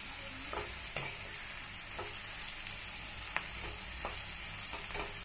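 Dried red chillies and chopped shallots frying in coconut oil in a non-stick pan, sizzling steadily as they are sautéed uncovered. A wooden spatula stirs and scrapes them, with a few light taps against the pan.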